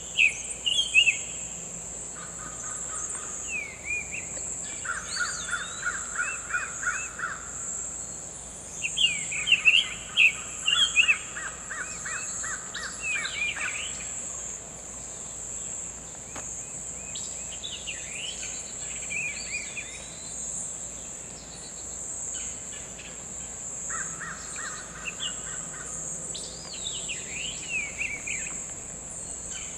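Summer tanager singing: short phrases of quick slurred whistled notes, with several runs of lower notes repeated about four or five times a second. A steady high-pitched insect drone runs underneath.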